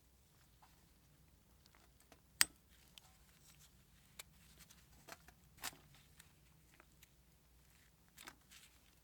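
A few scattered sharp clicks and light taps of small hard objects being handled, the loudest about two and a half seconds in, over a low steady hum.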